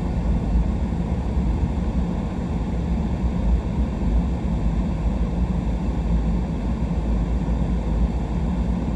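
Truck driving slowly on a winter road: a steady low rumble of engine and tyre noise.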